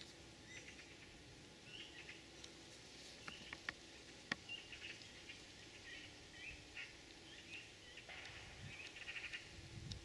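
Faint, scattered short chirps of small birds, with a quick run of chirps near the end. A few sharp clicks come about three to four seconds in.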